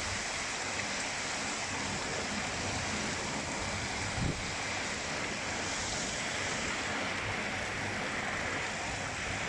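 Heavy rain falling in a steady, dense hiss, with a brief low thump about four seconds in.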